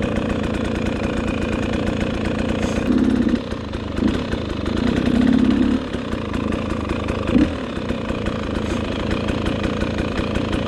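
Dirt bike engine running along the trail, rising briefly twice: about three seconds in and again around five seconds in.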